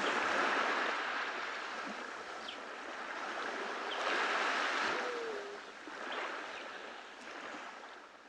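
Small ocean waves washing onto a beach, the surf swelling about half a second in and again about four seconds in, then fading out near the end.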